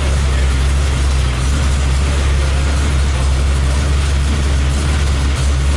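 Trophy truck engine idling steadily, a loud, deep, even rumble with no revving.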